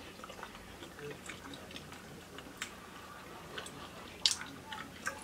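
Faint clicking and crunching of several people chewing small Ramune candies, with a sharper click about four seconds in.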